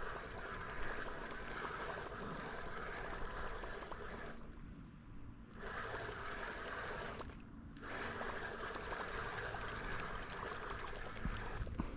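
Water trickling and splashing at a canoe, dropping out briefly twice.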